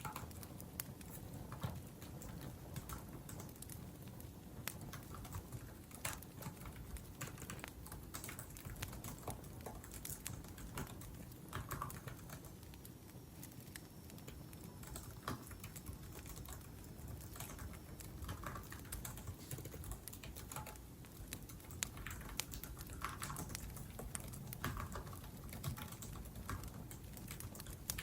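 Typing on a laptop keyboard: quick, irregular keystrokes, with a wood fire's low crackle underneath.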